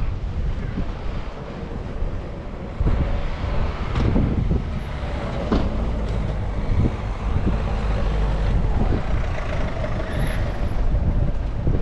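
Street traffic: a heavy motor vehicle running close by with a continuous low rumble, with a few knocks in the middle and a faint high squeal near the end.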